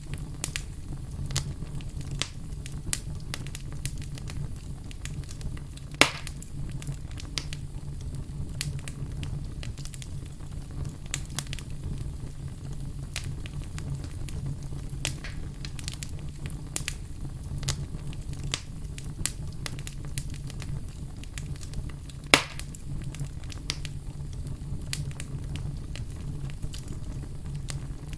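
Wood fire burning with steady crackling: a low rumble under frequent irregular snaps, with two louder pops, about six seconds in and near twenty-two seconds in.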